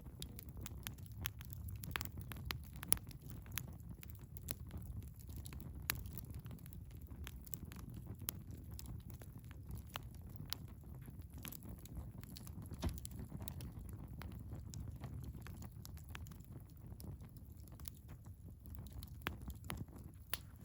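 Wood fire crackling: irregular sharp pops and snaps over a low, steady rumble of the flames, with the loudest pop about three seconds in.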